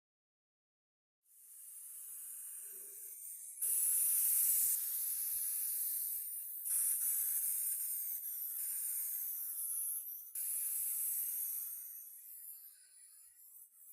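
Pressurised spray hissing in several bursts, each starting and stopping suddenly, about a second in, louder near four seconds, again near seven and ten seconds, then fading toward the end.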